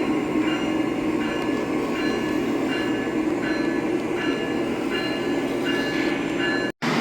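Model train running on the layout track: a steady rumble with a short high tone repeating about three times every two seconds. The sound cuts out for an instant near the end.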